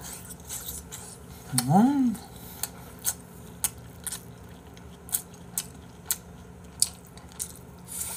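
Close-miked eating sounds: a string of short, sharp mouth smacks and clicks while chewing. About one and a half seconds in comes a brief hum whose pitch rises and then falls.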